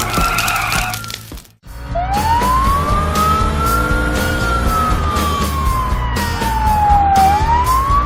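Wailing siren, one tone slowly rising and falling, over background music with a steady beat. The sound cuts out briefly about a second and a half in, then the siren starts again with a long rise and a long fall, beginning to rise once more near the end.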